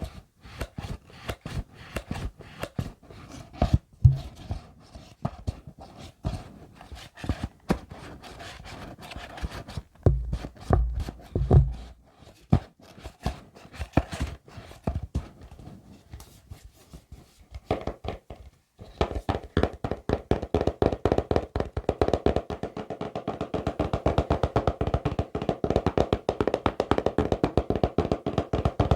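ASMR tapping on objects. At first the taps are scattered and irregular, with a few heavier low thumps. From about two-thirds of the way in comes a fast, continuous run of taps on something that rings with a hollow tone.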